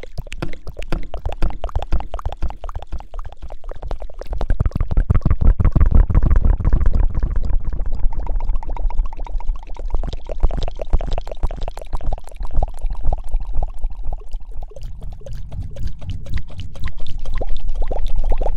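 Close-miked ASMR scrunching and crackling: dense, rapid crackles with low rumbling thuds, as from rubbing or lathering right at the microphone. It grows louder about four seconds in and eases briefly before the end.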